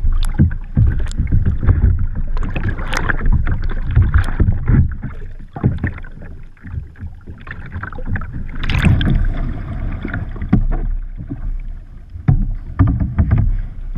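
Water splashing and sloshing against a kayak close to the microphone, in irregular surges with a low rumble, the biggest splash about nine seconds in.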